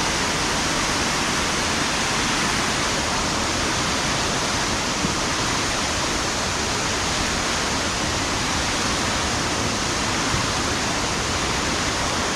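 Waterfall rushing steadily, swollen with rain run-off, mixed with heavy rain falling.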